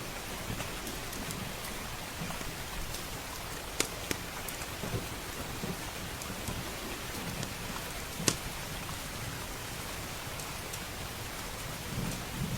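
Steady heavy rain with low rolling thunder, mixed with the crackle of a wood fire in a fireplace: a few sharp pops, the loudest about four and eight seconds in.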